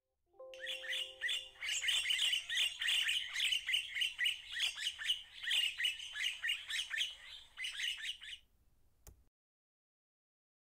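Birds chirping in a fast, dense chatter of short high notes, with a few held lower tones near the start; the chatter stops abruptly about eight and a half seconds in, followed by a single click.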